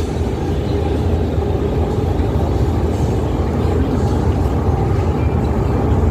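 Steady low rumble and drone of a large passenger ship's engines and machinery, heard from inside the vessel.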